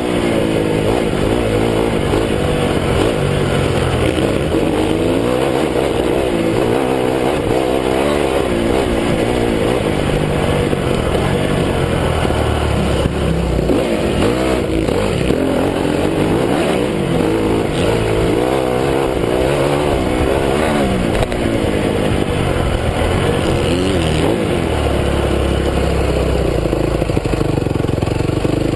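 2009 Honda CRF250 dirt bike's single-cylinder four-stroke engine being ridden hard, its pitch rising and falling over and over as the throttle is opened and shut.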